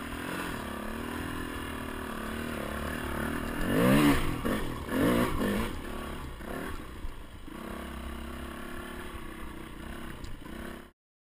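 Trail bike engine running, revved up and down a few times about four to six seconds in, then settling back to a steady idle before cutting off abruptly near the end.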